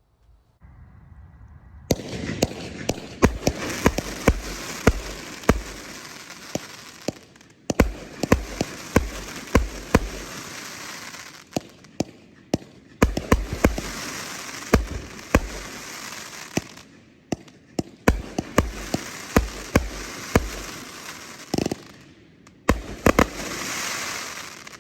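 Happy Family 'Geometric' 25-shot, 500 g consumer firework cake firing. A brief hiss comes before the first shot. Then sharp launch reports follow in five quick clusters of shots, over a steady crackling hiss from the time rain and strobe effects.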